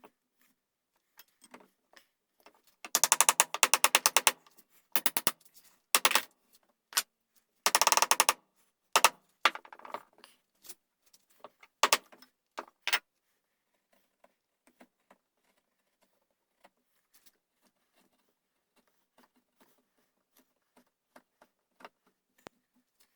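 Hand tools working a wooden gunstock: two dense runs of rapid clicking, scraping strokes with single sharp strokes and taps between them, then only faint light ticks through the second half.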